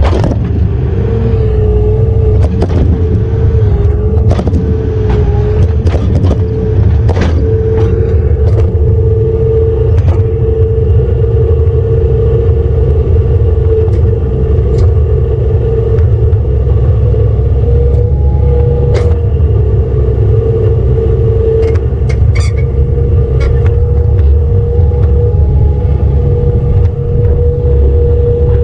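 A heavy vehicle's engine running steadily with a loud low rumble and a steady whine, with frequent short knocks and rattles.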